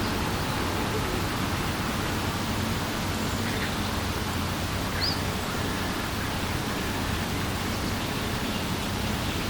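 Steady, even outdoor ambient hiss of the lakeside, with one brief faint bird chirp about five seconds in.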